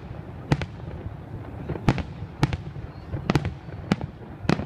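Fireworks bursting: about nine sharp bangs at irregular intervals, several of them in quick pairs, over a steady low background rumble.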